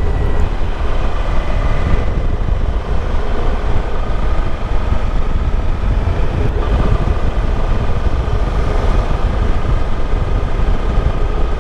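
Suzuki V-Strom DL1000's V-twin engine running steadily on the road, with wind rushing over the microphone.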